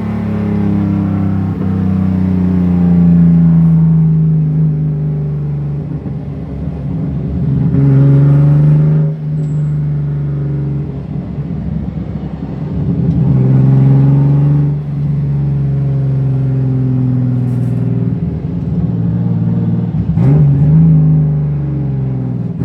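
BMW E36 M3 race car's straight-six engine driven hard, the revs climbing and falling in repeated pulls, with four loud peaks about six seconds apart and sudden drops in pitch between them.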